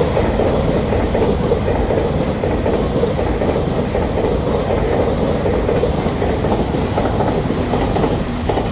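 A train running past on the rails: a steady loud rumble of wheels with some clicking over rail joints, easing off at the very end.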